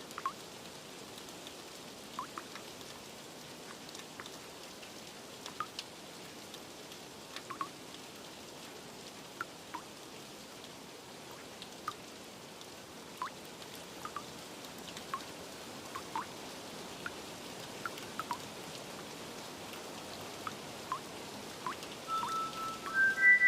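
Steady rain hiss with single water drips plinking at scattered moments, about one a second. A few chime notes start near the end.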